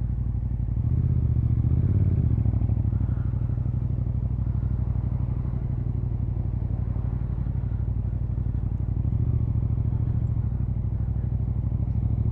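Motorcycle engine running steadily at low speed, getting a little louder for a moment about a second in and again around nine seconds in.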